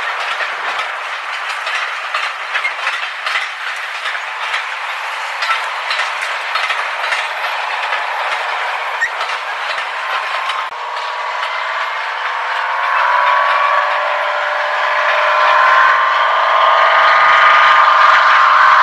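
A train running on the rails, with rapid irregular clicking from the wheels over the track. After an abrupt change about ten seconds in, a droning sound with several steady pitches takes over and grows louder.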